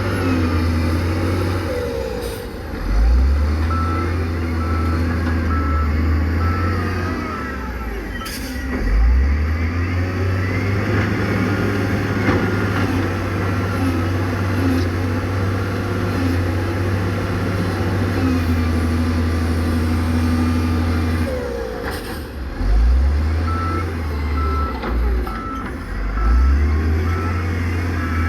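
Diesel engines of heavy earthmoving machines running, their pitch swelling several times as they rev under load. A reversing alarm beeps in a steady series twice, in the middle part and again near the end, and a few sharp clanks sound.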